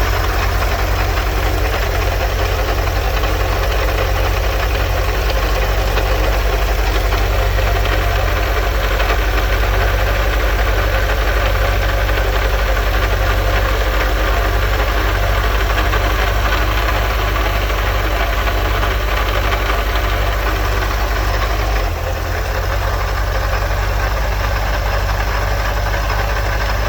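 1984 Volkswagen Vanagon's 1.9-litre water-cooled flat-four engine running steadily with a strange noise that the owner thinks comes from the water pump pulley. The sound dips briefly near the end.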